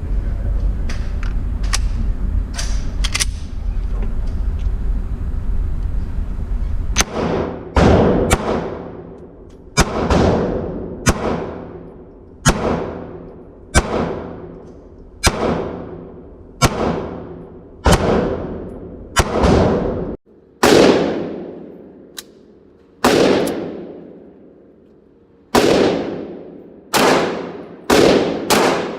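9mm gun firing a long string of single shots, roughly one every second or so, each shot followed by a long fading ring. Before the firing starts there is a steady low rumble with a few faint pops.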